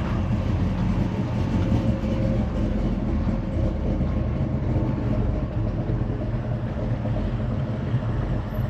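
Car engine running at a steady idle, a low, even rumble.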